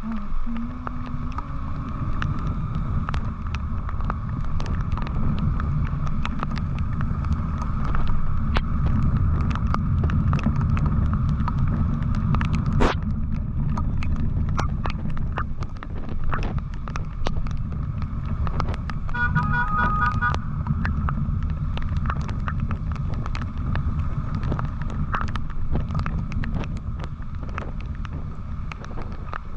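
Wind rumbling on the microphone of a moving motorcycle in the rain, with many sharp ticks that are raindrops hitting it. About two-thirds through comes a brief burst of rapid beeping tones.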